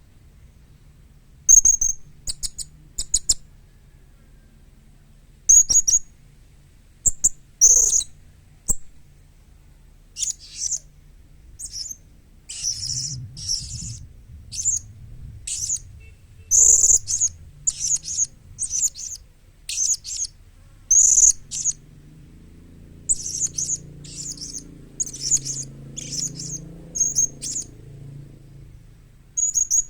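Young blue-crowned hanging parrot (serindit) calling in short, high-pitched, shrill chirps. The chirps come in quick clusters from about a second and a half in, and come more often after about ten seconds.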